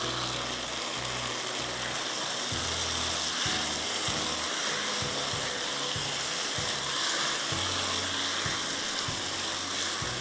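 Boiled, coarsely crushed potatoes frying in hot oil in a nonstick wok with a steady sizzle, turned over now and then with a spatula.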